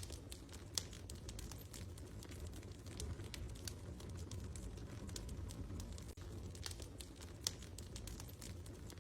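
Wood fire crackling in a fireplace: a steady low rumble with scattered small crackles and two sharper pops, one about a second in and one a little before the end.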